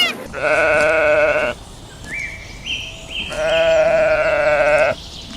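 Two long, wavering bleats from a sheep or goat-type farm animal, one just after the start and another about three and a half seconds in.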